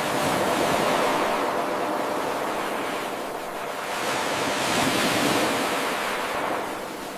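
Ocean waves breaking and washing onto a shore: a continuous rush of surf that swells, ebbs, then swells and ebbs again.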